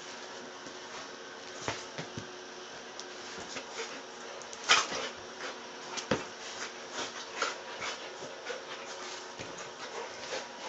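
A dog playing with a rope, making short scuffling noises and brief dog sounds. The loudest comes a little under five seconds in, with another strong one about a second later.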